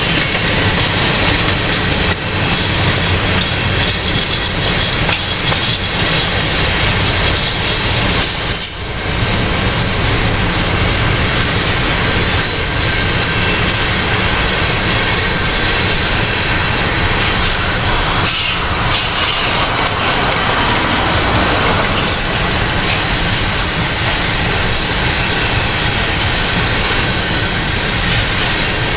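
Slow freight train of covered hopper cars rolling past, its steel wheels rumbling and clicking over the rails in a steady, continuous din, with wind buffeting the microphone.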